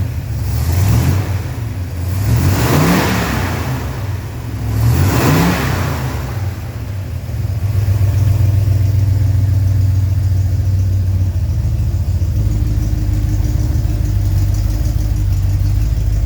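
Car engine revved briefly three times, each time rising and falling in pitch, then settling to a steady idle. No V-belt squeal is heard: the belt no longer squeals.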